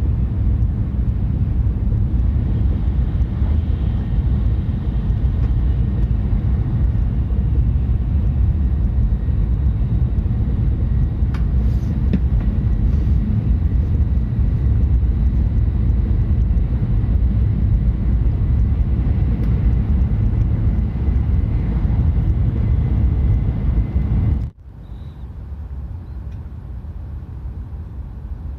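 Tohoku Shinkansen train running at speed: a steady, deep rumble with a faint high whine. About 25 seconds in, this cuts off abruptly and a quieter, lighter running noise follows.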